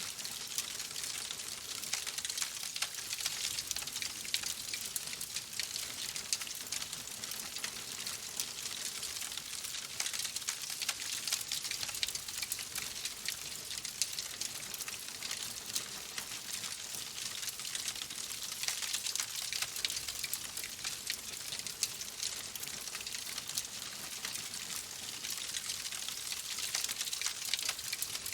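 Wood fire crackling steadily in a fireplace: a dense, irregular stream of small pops and snaps over a high hiss.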